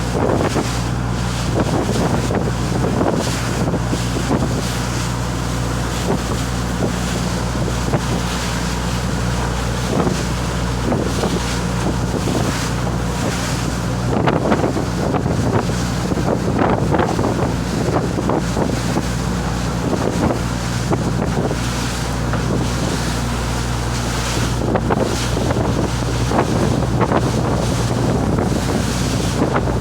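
Fishing boat's engine running at a steady pitch, with wind buffeting the microphone and water rushing past the hull.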